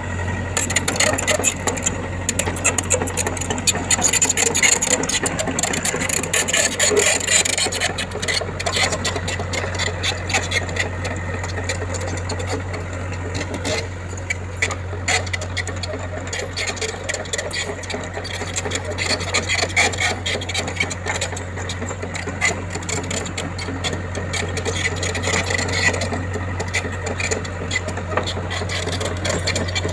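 An engine-driven machine running steadily, a constant low engine hum under a dense, continuous rattling and scraping.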